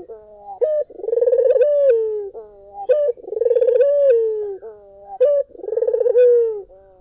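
Barbary dove (puter) cooing: three coo phrases about two seconds apart. Each is a short note, then a long rolling coo, then a held note that drops in pitch.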